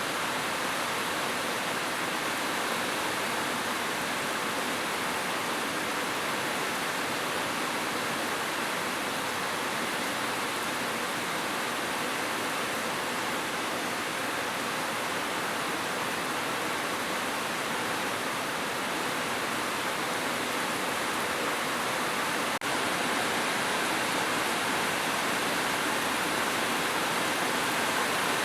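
Heavy rain falling steadily on a roof, an even dense hiss with no thunder, broken by a momentary dropout about two-thirds of the way in.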